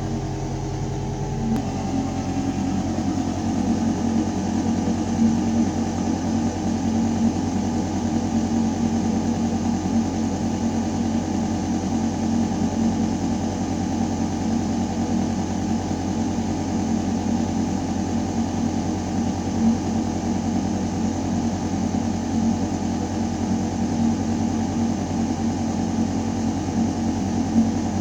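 Building ventilation system running: air moving through a metal duct with a steady, low mechanical hum. About two seconds in, the deepest rumble eases and a pitched drone comes up and then holds steady.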